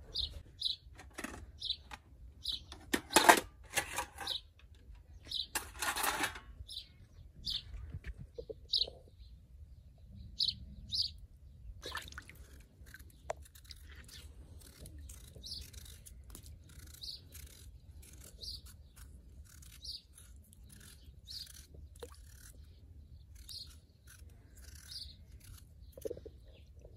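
A bird chirping over and over in short single chirps, roughly once or twice a second. Louder handling noises from work at a basin of water break in about three and six seconds in, with a steady low background rumble.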